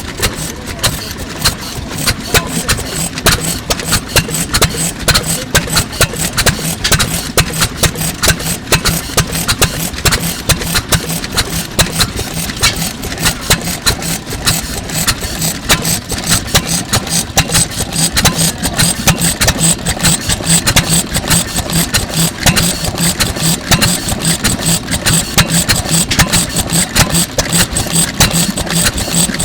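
1920s Fairbanks-Morse Type Z 3 hp stationary engine running steadily, with a fast, regular train of sharp knocks over a steady low hum.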